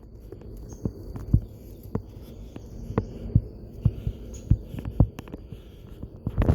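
Footsteps of a person walking along a woodland trail, a steady run of low thumps about two a second.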